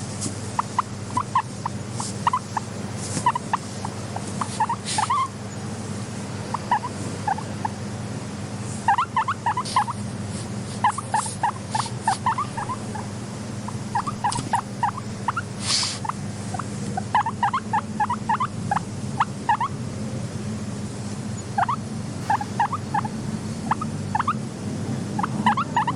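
Guinea pigs giving short, quick squeaks in clusters of several notes, over a steady low hum. One sharp click stands out about sixteen seconds in.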